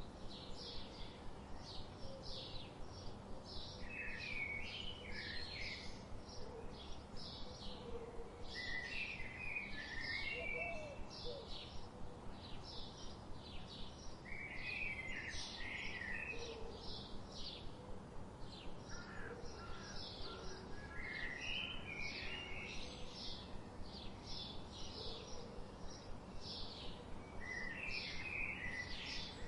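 Birds chirping and singing: quick runs of short, high chirps several times a second, broken every five or six seconds by a lower warbling phrase, over a steady background hiss.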